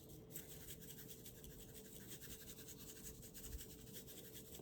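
Garlic and herb seasoning being dispensed from its container onto chicken: a faint, fast, even rasping of many quick strokes a second.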